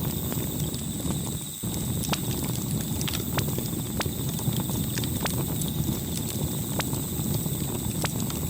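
Campfire burning: a steady low rush of flame with sharp, irregular crackles and pops, about one every half second to second.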